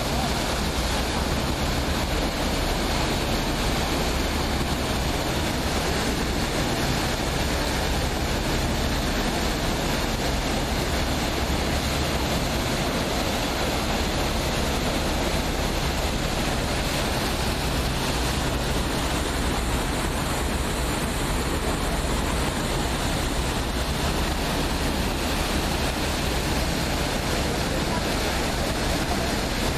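Steady rushing noise of water and wind aboard a moving passenger boat, with the low, even hum of the boat's engine underneath.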